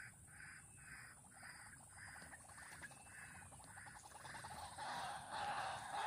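A bird calling a short, repeated note about twice a second. In the last second or two a louder rushing rustle builds over it.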